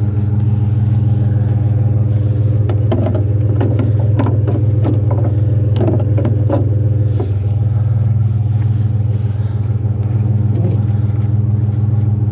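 Vehicle engine running steadily with a loud, even low hum, with a flurry of short clattering rattles from about three to seven seconds in.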